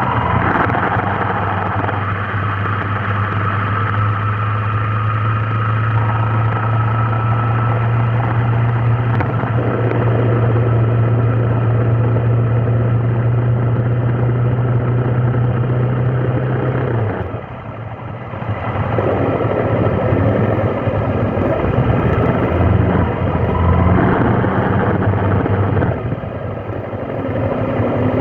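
Vehicle engine and traffic noise while driving in congested traffic. A steady low engine hum breaks off briefly about two-thirds of the way through, then comes back more unevenly.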